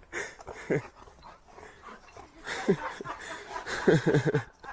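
A dog vocalizing in short pitched whines: one about a second in, another midway, and a quick run of four or five near the end.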